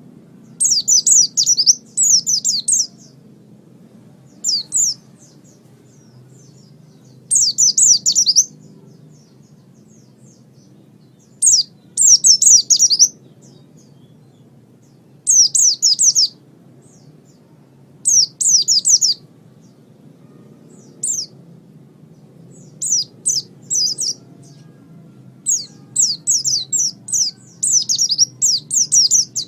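White-eye (pleci) singing in short, rapid, high twittering phrases, each lasting about a second, with pauses of one to three seconds between them. The phrases come closer together near the end. A faint low hum runs underneath.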